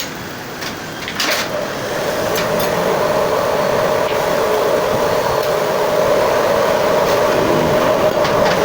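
Car engine running with a steady whine that comes in about a second in, after a couple of clicks, and grows a little louder: the clutch bearing noise.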